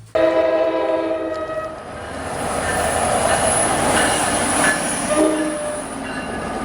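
Train horn sounding a chord for under two seconds, then the rumble of the passing train with a high whine, and a second short horn blast about five seconds in.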